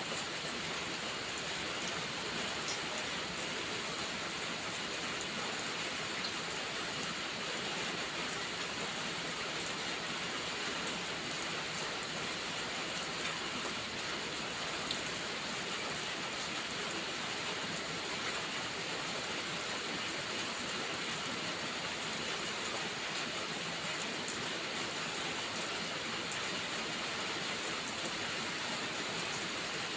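Steady rain falling: an even, unbroken hiss with a few faint isolated ticks.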